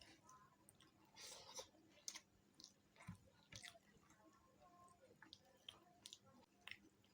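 Faint, close-miked chewing of chicken feet curry, with scattered wet mouth clicks and smacks.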